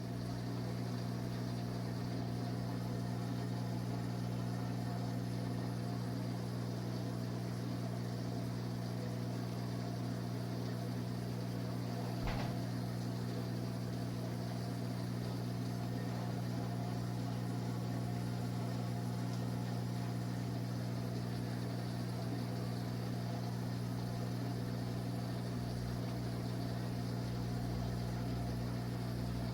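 Steady low hum with no change in pitch or level, and a single brief click about twelve seconds in.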